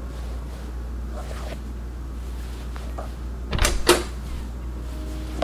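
A steady low hum, with a couple of faint knocks and, about three and a half seconds in, a louder clatter in two quick parts.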